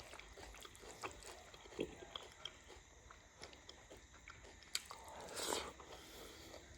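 A person eating close to the microphone: faint chewing with small wet mouth clicks, and a brief louder noise about five and a half seconds in.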